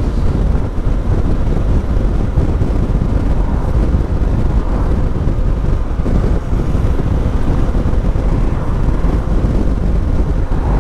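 Yamaha Ténéré 700 parallel-twin with an Akrapovic exhaust running steadily while riding, heavily overlaid by wind buffeting on the microphone.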